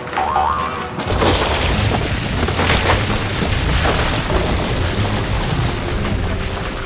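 A short rising tone, then from about a second in a loud rumbling, crashing noise that carries on for several seconds, over music.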